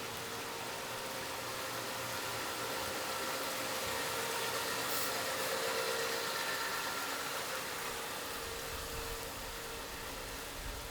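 A motor vehicle's engine running close by, its hum growing to its loudest about halfway through and then fading, over a steady hiss.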